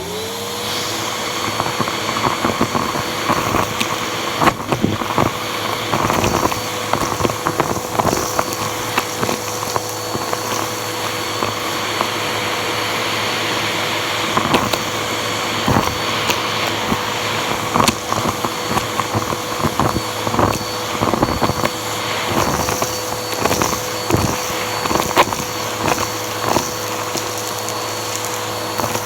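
Bissell vacuum cleaner switched on, its motor whining up to speed within a second, then running steadily with a held whine. Frequent clicks and rattles of debris being sucked up through the hose.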